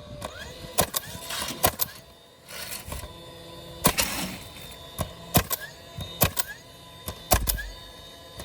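Irregular sharp clicks and knocks, about a dozen, with short rustling hisses between some of them and a low thump near the end.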